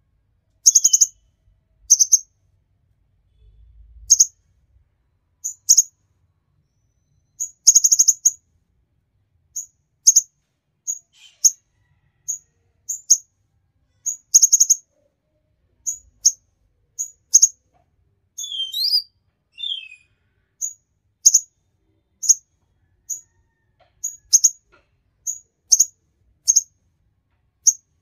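A konin songbird calling: short, sharp, high chirps at an uneven pace of about one a second. Around two-thirds of the way through it gives a brief twittering phrase that falls in pitch.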